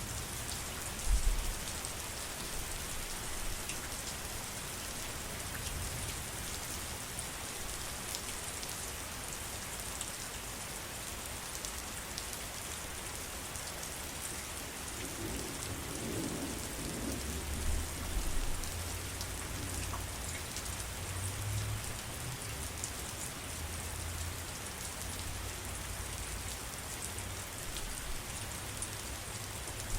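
Steady heavy rain, an even hiss of drops. There is a short low thump about a second in, and low rumbling from about halfway through.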